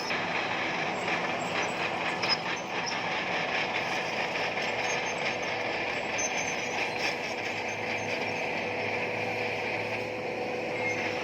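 Bulldozer working: its diesel engine running steadily while its steel crawler tracks clank and squeal, with scattered knocks.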